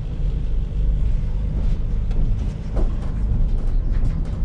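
Steady low engine and road rumble of a vehicle being driven, heard from inside the cab.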